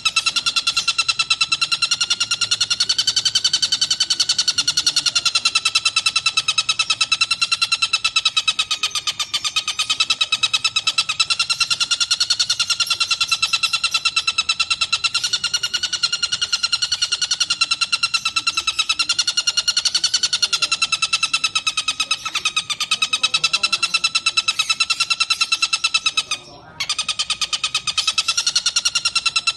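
Tengkek buto kingfisher calling in a long, unbroken rapid trill of fast repeated notes, with one brief break a few seconds before the end.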